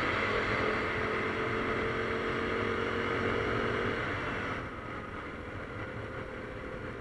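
Motorcycle riding noise from a KTM Duke 390: wind rush with the engine's steady note underneath, both easing off about four and a half seconds in.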